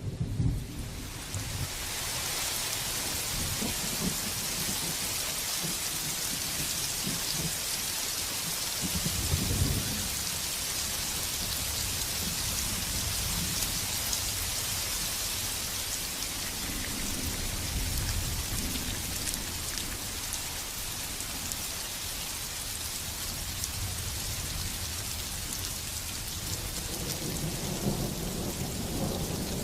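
Heavy rain pouring steadily, setting in over the first second or two, with low rumbles of thunder rolling in a few times.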